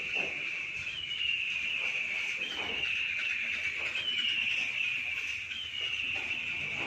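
A bird calling over and over, a high-pitched falling call repeated about every one and a half seconds.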